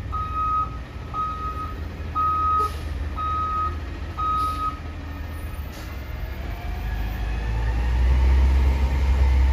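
Garbage truck's reverse alarm beeping five times, about once a second, then stopping; a few seconds later the truck's diesel engine revs up, rising in pitch and growing louder.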